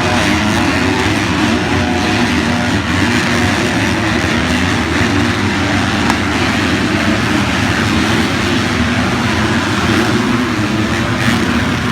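Motocross bike engines running on the race track: a loud, steady din with wavering engine pitches.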